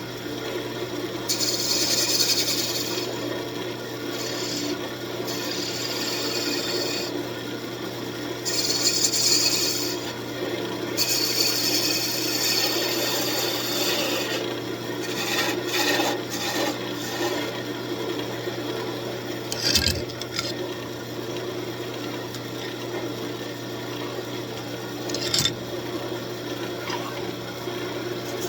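Wood lathe running with a steady hum while the spinning walnut is sanded, a rubbing hiss coming in four bursts during the first half. Two sharp clicks sound later on.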